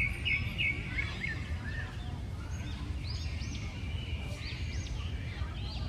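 Birds chirping: many short, arched, high notes in quick succession, with a brisk run of repeated chirps at the start, over a steady low rumble.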